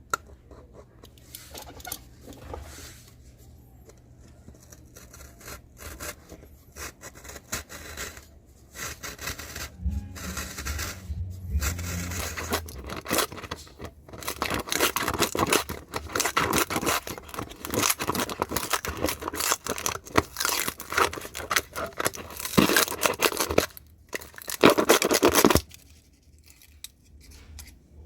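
Dust cap of a JBL PRX710's 10-inch woofer being cut and torn away: irregular dry scraping and tearing strokes, sparse at first and then dense and loud for most of the second half, stopping a couple of seconds before the end.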